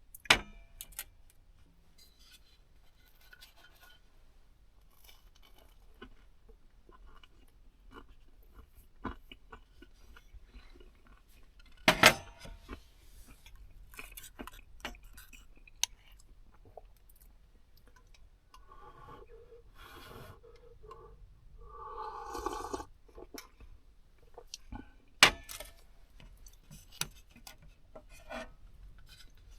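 Scattered small clicks, crunches and clinks of close handling, with three loud sharp knocks: one just after the start, one about twelve seconds in and one about twenty-five seconds in.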